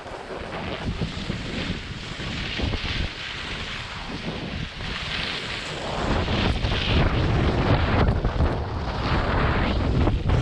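Wind buffeting the microphone during a ski run downhill, mixed with the swelling hiss of skis sliding and carving on snow; the low rumble of the wind grows louder about six seconds in.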